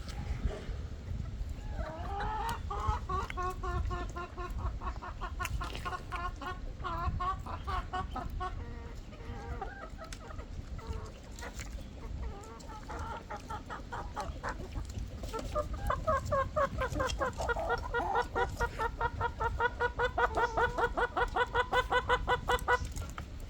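Hens cackling in long runs of rapid, repeated notes: one run from about two to ten seconds in, and a louder one from about fifteen seconds to near the end, over a steady low rumble.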